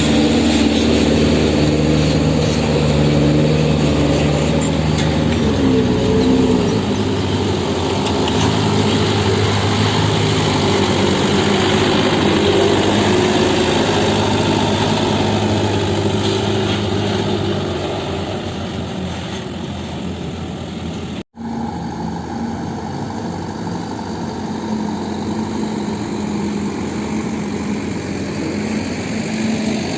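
Diesel engine running with a steady drone, its pitch wavering up and down in the first few seconds and then holding steady.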